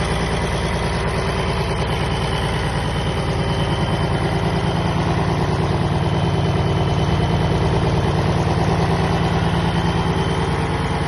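Scania diesel engine of a 275 kVA Leroy-Somer generating set running at a steady speed, a constant even drone with a fast pulse.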